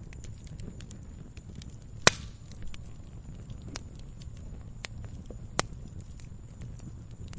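Firewood burning: a steady low rumble of flame with scattered sharp crackles, and two loud pops, one about two seconds in and another over five seconds in.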